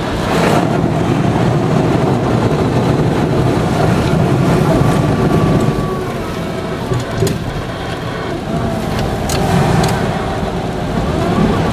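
Car driving through a flooded street in heavy rain, heard from inside the car: a steady rushing noise of tyres pushing through standing water and spray against the body, swelling about half a second in.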